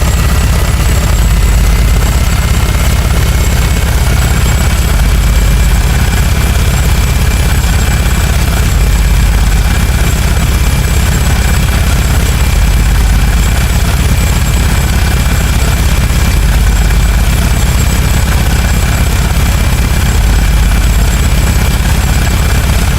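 Synthesized sound effect of the Mikisaki FM136 laser rotary-barrel machine gun firing continuously. A dense, rapid low pulsing runs under a high whine that rises slightly over the first few seconds and then holds steady.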